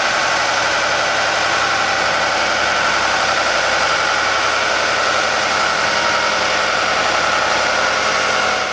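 Nissan 370Z's V6 idling steadily on a dyno through a Tanabe Medalion Touring cat-back exhaust and Tanabe Y-pipe, with a steady hiss behind it, fading out near the end.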